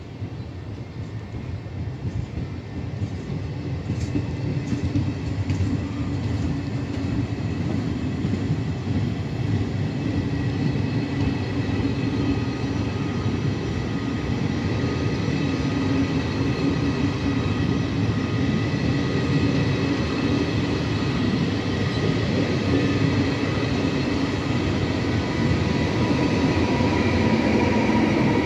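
Regional passenger train pulling out from the platform, pushed by its Trenitalia E464 electric locomotive: wheels rolling on the rails, getting louder, with steady high electric whining tones that grow as the locomotive comes level near the end.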